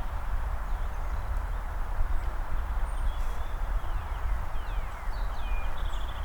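Footsteps of a walker in hiking boots on pavement, under a steady low rumble, with a few faint bird chirps and short whistles in the background.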